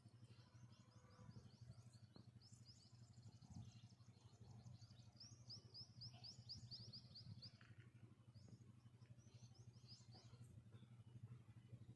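Faint bird song: long runs of fast, short high chirps, breaking off about seven and a half seconds in and starting again for a couple of seconds, over a steady low hum.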